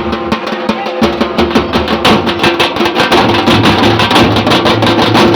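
Danka group drums beaten in a fast, dense rhythm over a steady held tone; a deeper low note joins about three seconds in.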